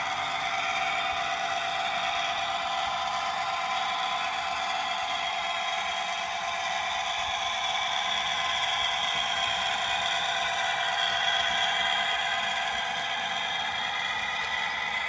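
Model Class 66 diesel locomotive running on a layout, its DCC sound decoder playing a steady diesel engine sound through a small onboard speaker, thin and without bass, over a faint rattle of wheels on track.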